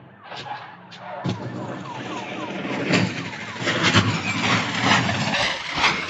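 Vehicle noise: a quiet stretch, then loud road noise starts about a second in. Several knocks and quick runs of short falling chirps sound over it.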